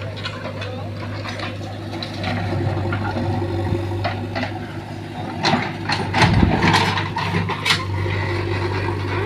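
Backhoe loader's diesel engine running steadily, with a burst of knocks and clatter, including one heavy thump, between about five and eight seconds in.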